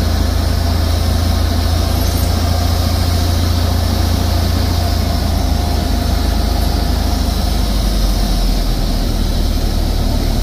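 Cessna 172's piston engine and propeller drone heard inside the cockpit, steady and loud, with an even rush of airflow noise. About eight seconds in, the deepest part of the drone shifts lower.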